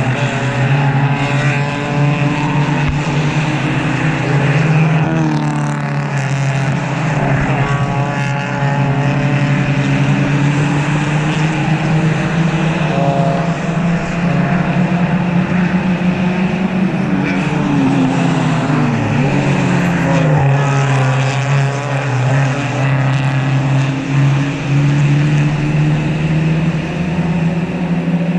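Race cars' engines going past at speed, several at once, their engine notes overlapping and rising and falling as they accelerate, shift and go by.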